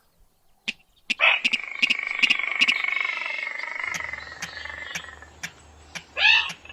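Rail and crake lure calls of the sintar and mandar padi kind. About a second in, a long drawn-out call starts that slowly falls and fades over a few seconds, with a steady ticking beside it. A short loud call comes near the end.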